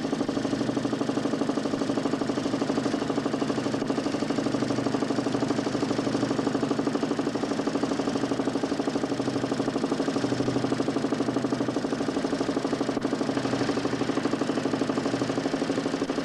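DC motor spinning a large 40cm plywood Nipkow disc in a homemade mechanical television, a steady, rapidly pulsing hum.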